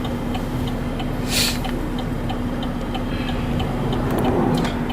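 A 2011 Chevrolet Camaro idling, heard from inside the cabin, with the turn-signal indicator ticking regularly. A passing car rushes by about a second and a half in.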